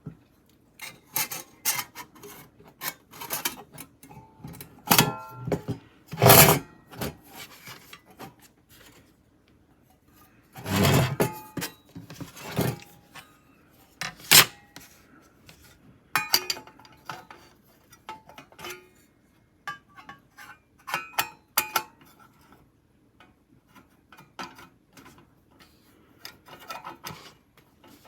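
Irregular clinks, knocks and scraping as small metal objects, such as camp cookware or stove parts, are handled and set down, with a longer rubbing thump about eleven seconds in.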